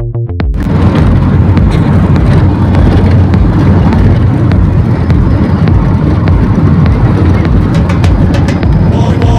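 Road and wind noise inside a moving vehicle: a loud, steady low rumble with scattered rattles and ticks. A few short pitched notes fade out in the first half second.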